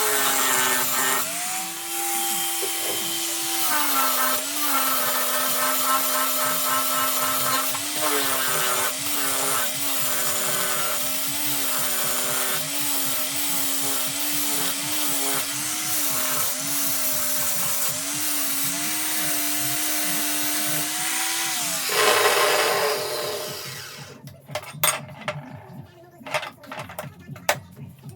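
An electric power tool cutting a metal power steering bracket: a steady motor whine whose pitch dips and recovers as the cut loads it. About twenty-two seconds in there is a short, louder grinding rush, and then the tool stops and a few sharp clicks and knocks follow.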